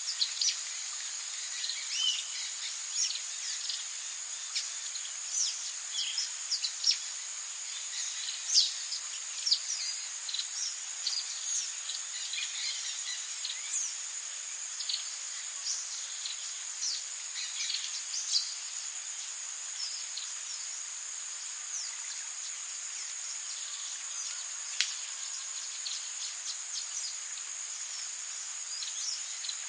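Tropical rainforest ambience: a steady, high-pitched insect drone, with many short, quick, downward-sliding bird chirps over it. The chirps come thick and fast for the first two-thirds and then thin out to a few.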